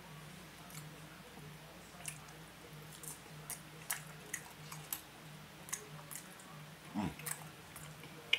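A person eating close to the microphone: chewing with many small, irregular wet clicks and smacks, over a faint steady hum.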